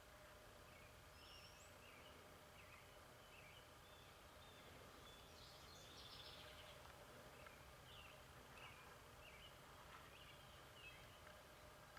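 Near silence outdoors, with faint short bird chirps and calls scattered throughout and a brief denser flurry of calls about halfway through.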